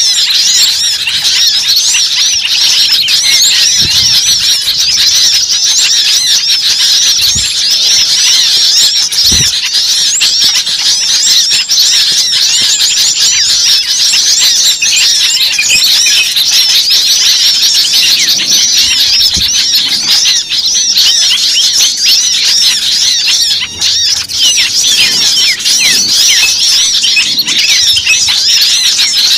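Bird-lure (pikat) recording of many small birds chirping and chattering without a break, dense and high-pitched. It is the agitated 'ribut' flock calling used to draw wild birds in.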